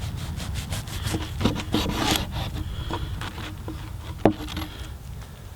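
Aluminium foil crinkling and rustling as a foil-wrapped campfire sandwich is unwrapped, with a sharp click about four seconds in.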